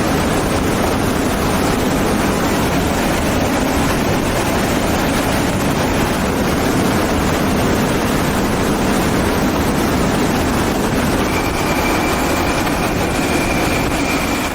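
Fighter jet engine running at close range: a steady, loud rush of noise, with a thin high whine coming in near the end.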